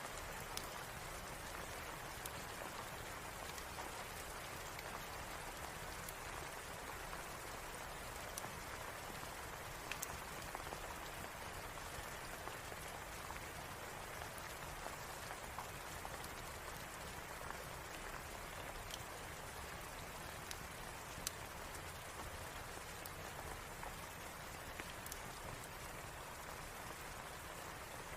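Steady rain falling, an even hiss with scattered sharp little ticks and pops that fit a crackling log fire.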